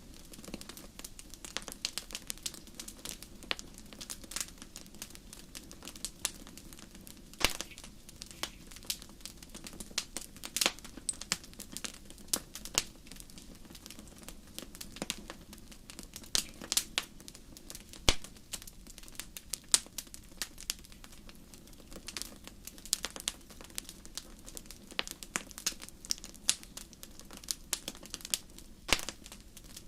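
Wood fire crackling in a fireplace: irregular sharp pops and snaps, several a second, some much louder than others, over a steady low rush of the flames.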